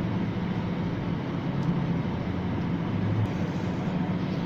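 Steady whoosh with a low hum from the ventilation blower of an enclosed Ferris wheel gondola.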